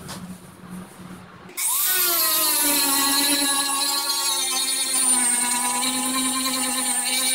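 Power sander starting up about one and a half seconds in, its whine sweeping up to speed and then running steadily, settling slightly lower in pitch. It runs on a sanding pad that is nearly due for changing.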